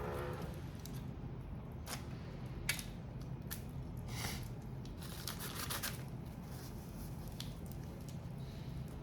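Hands shelling cooked shellfish: scattered sharp cracks, clicks and short crackling, tearing bursts as the shells are broken and peeled, with a cluster of them around the middle.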